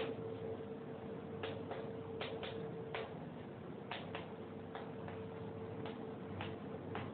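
Chalk tapping and scraping on a blackboard as words are written by hand. It comes as irregular sharp clicks, about one or two a second.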